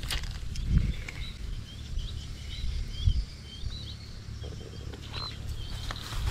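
A songbird chattering in a run of short, faint, high chirps, repeated every half second or so, over a low rumble of background noise.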